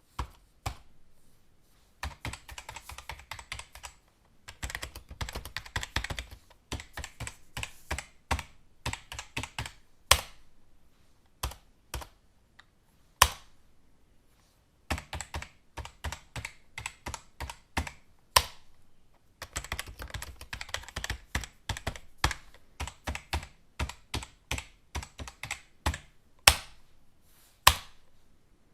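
Computer keyboard typing: bursts of rapid keystrokes broken by short pauses, with now and then a single louder key strike standing alone.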